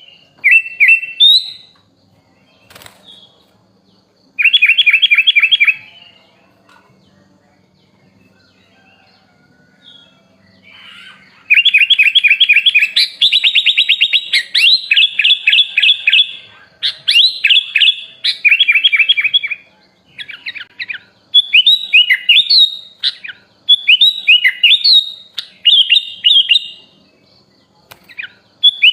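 Sooty-headed bulbul (kutilang) singing: short bursts of fast repeated chirping notes, a pause of several seconds, then a long run of rapid trills from about eleven seconds in that turns into repeated rising-and-falling whistled phrases.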